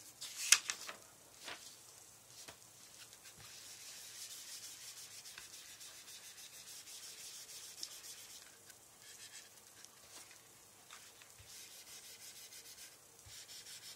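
A sharp tap about half a second in, then a steady scratching of a writing tool across a surface as the problem is written out.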